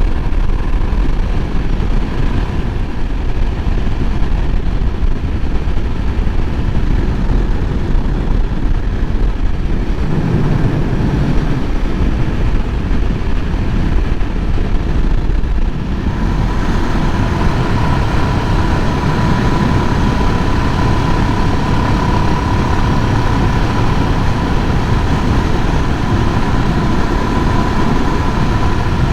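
Suzuki DR650's single-cylinder engine running steadily under way, mixed with heavy wind rush on the rider's microphone. A steady high whine joins in about halfway through and holds.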